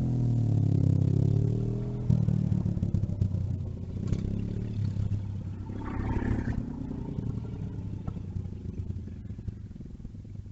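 A motor vehicle's engine running close by, loudest and rising slightly in pitch in the first two seconds, then running on more quietly.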